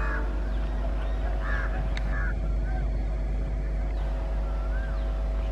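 Passenger train coaches rolling away along the track with a steady low rumble and a faint steady hum, while birds give short, repeated rising-and-falling chirps. A single sharp click comes about two seconds in.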